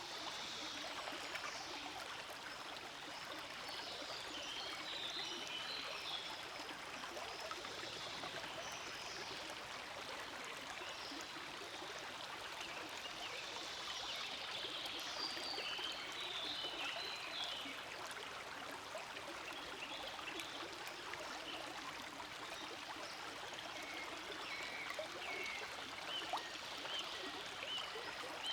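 A forest stream flowing: a steady, even rush of water.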